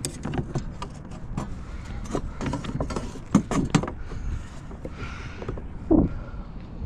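Irregular clicks, taps and knocks of fishing gear being handled aboard a plastic kayak, with a cluster of sharper knocks about three and a half seconds in and a heavier knock about six seconds in.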